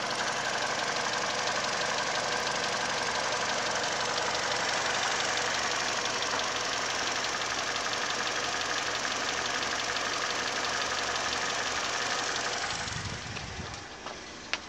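2015 Hyundai Elantra's 1.8-litre four-cylinder petrol engine idling steadily with the bonnet open. It drops away sharply about thirteen seconds in.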